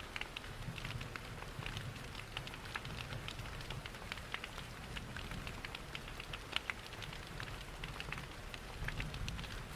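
Steady rain with many short, irregular clicks and crackles from a wood fire in a fireplace.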